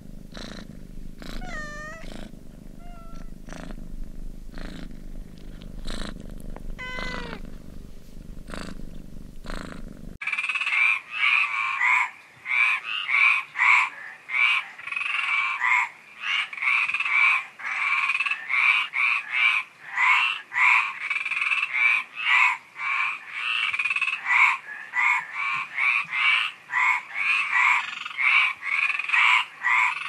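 A domestic cat purring steadily, with two short meows. About ten seconds in it cuts to frogs croaking in a loud, dense chorus of rapid calls.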